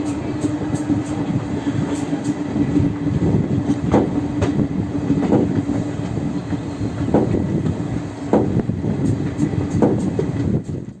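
Passenger train rolling slowly, its wheels clicking over rail joints at irregular intervals, over a steady hum that fades out about halfway through.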